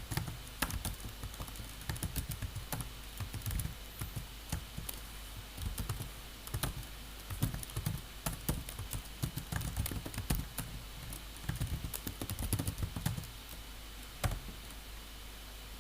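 Typing on a computer keyboard: keys clicking in quick, irregular runs with short pauses between them. The typing tails off near the end, with one last keystroke.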